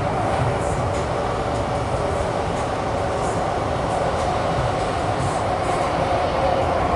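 Loud tunnel noise heard from inside a Kawasaki Heavy Industries & CRRC Qingdao Sifang CT251 metro car running at speed in a tunnel. It is a steady, even roar of wheels on rail with a constant drone, with faint light ticks scattered through it.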